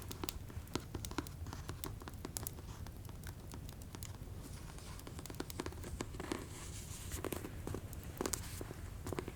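ASMR tapping: fingertips and nails tapping quickly and irregularly on hard objects, with a few brief stretches of scratching.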